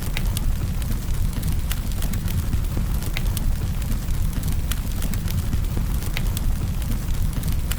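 Wood campfire burning, with a steady low rumble and sharp, irregular crackles and pops.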